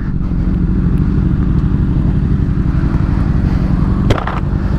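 Motorcycle engine running steadily at cruising speed, heard from the rider's helmet, with a brief dip about four seconds in.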